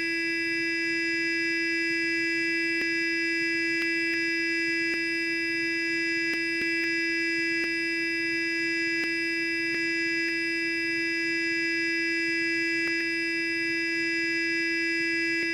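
Sonic electric toothbrush running continuously with an even, steady buzz that does not change in pitch or level.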